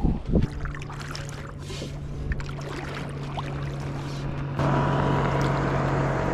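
Boat motor humming steadily at one pitch over water and wind noise, stepping up louder about four and a half seconds in.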